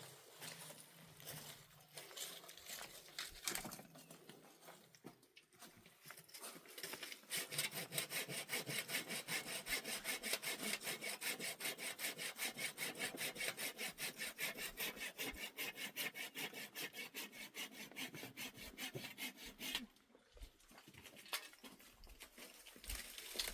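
Rhythmic scraping strokes, several a second and evenly paced, for about twelve seconds, after some scattered knocks and rustling; they stop suddenly near the end.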